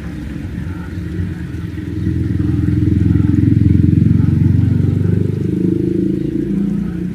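Engine of a motor vehicle going by close to the microphone, swelling about two seconds in, loudest through the middle, then easing off near the end.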